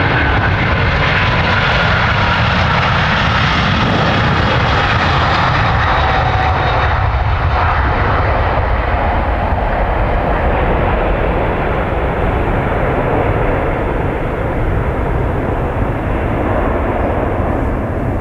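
Jet airliner engines passing close and loud, with a whine that slowly falls in pitch as the aircraft goes by; the noise eases slightly near the end.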